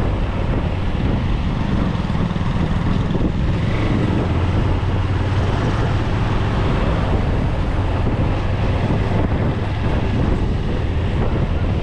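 Wind buffeting the microphone over a steady low engine drone.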